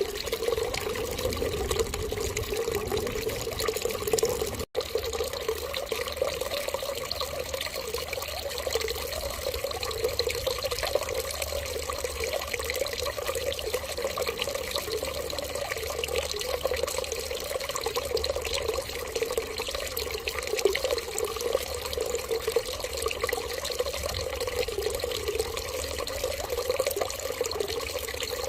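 Steady stream of running water, like a tap left running, continuous with one split-second break about five seconds in.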